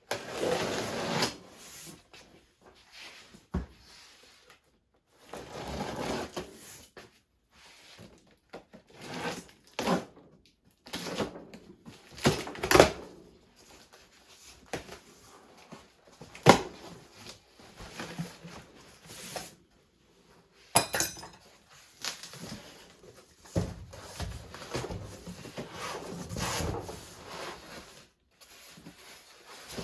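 A cardboard shipping box being opened and unpacked by hand: scattered knocks, scrapes and rustles of cardboard and packing material in short bursts, with a quick run of ticks about two-thirds of the way through.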